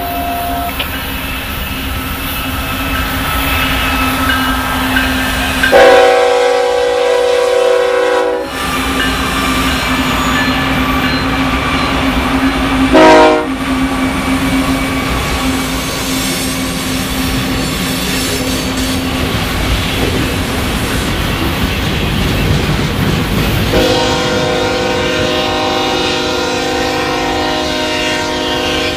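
Freight train of refrigerator cars rolling past with a steady rumble of wheels on rail. A diesel locomotive's chime horn sounds for about two and a half seconds some six seconds in, and again for about five seconds near the end; about halfway through comes a brief, loud rising wheel squeal.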